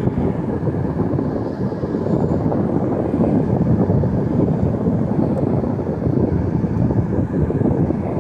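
Zanussi air conditioner running, a loud steady noise of its fan and air flow.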